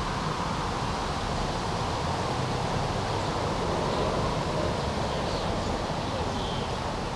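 Steady background hum of city traffic, with a few faint, short bird calls.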